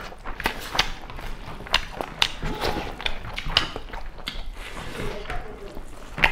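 Close-up eating sounds of people chewing rice and pork curry eaten by hand: irregular wet mouth clicks and lip smacks.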